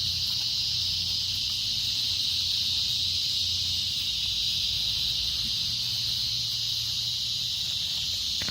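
A steady, high-pitched insect chorus running without a break, with a faint low hum underneath.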